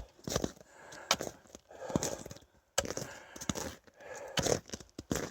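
Footsteps crunching through dry leaves and twigs at a steady walking pace.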